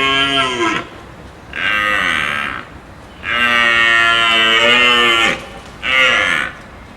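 A cow mooing, four calls in a row: one fading out within the first second, a short moo, a long moo of about two seconds, then a short one near the end.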